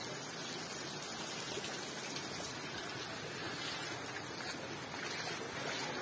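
Torrential rain pouring steadily onto a flooded street, a dense, even hiss.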